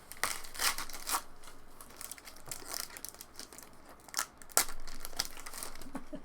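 Foil trading-card pack wrappers crinkling and tearing as packs are opened and handled: an uneven run of sharp crackles, the loudest about four and a half seconds in.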